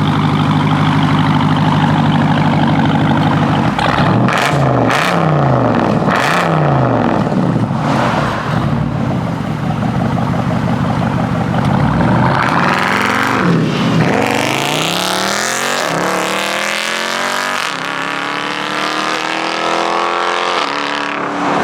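Loud straight-piped Jeep Grand Cherokee SRT V8 exhaust. It runs steadily for about four seconds, is then revved up and down in several quick blips, and then accelerates away, its note gliding through the last part.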